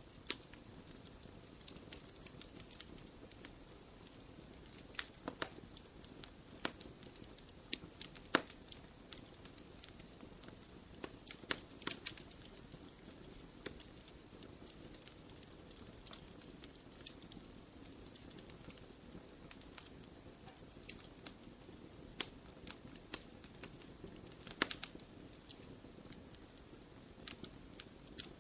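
Wood fire burning in a fireplace, crackling steadily with irregular sharp pops over a soft hiss.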